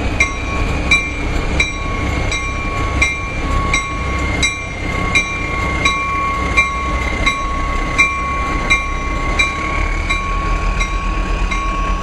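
Narrow-gauge diesel locomotive No. 21 running at a standstill with a steady deep rumble and a constant whine, while a ringing strike repeats evenly about every two-thirds of a second.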